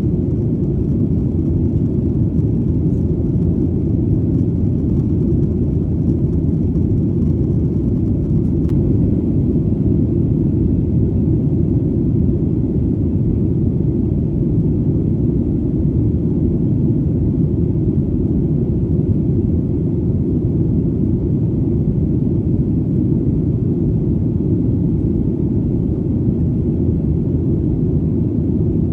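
Steady, deep rumble of an airplane in flight, even and unchanging, with almost nothing in the higher range.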